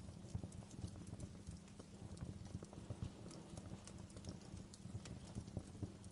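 Wood fire crackling in a fireplace: many irregular small pops and snaps over a steady low rumble.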